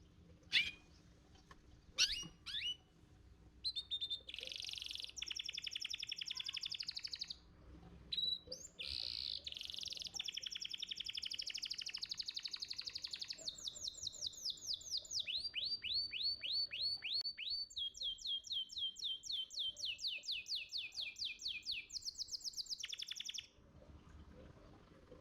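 Domestic canary singing: a few short chirps, then a long song of fast trills and rolls made of rapidly repeated high notes, changing its trill pattern several times, with a brief pause near the middle, and stopping shortly before the end.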